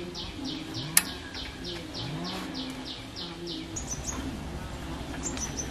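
A bird calling: a run of short, downward-sliding chirps, about three a second, followed by a few higher chirps near the end. A single sharp click about a second in, over a low background hum.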